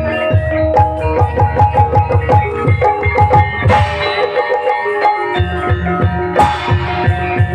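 Gamelan music accompanying an ebeg dance: struck metal tuned tones play a melody over fast, dense drumming. Two short cymbal-like crashes come about four and six and a half seconds in.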